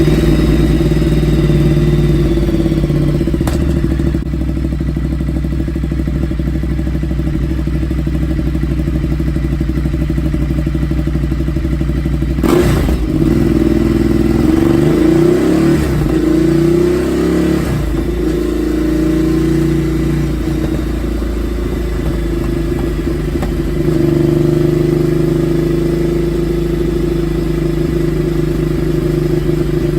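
Ducati Multistrada 1200's V-twin running loud through an SC-Project exhaust with the dB killer removed, just after start-up. It holds a steady idle, with a few short throttle blips from about 13 to 17 seconds in.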